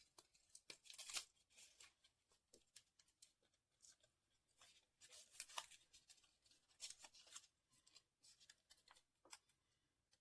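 Faint, scattered rustles and small crackles of paper being handled and pressed together as parts of a paper model are stuck on.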